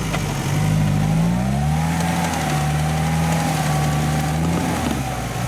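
Off-road 4x4's engine revving up and held at steady high revs under load, with a wavering whine above it, then easing off near the end, as the vehicle tries to back out of mud.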